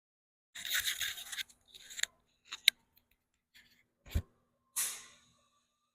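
Brief handling noises: rustling and scraping, a sharp click, a low thump, then a short fading hiss-like rustle.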